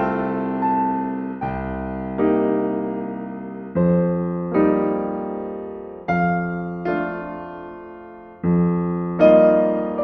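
Slow, gentle solo piano music: chords struck every couple of seconds and left to ring and fade.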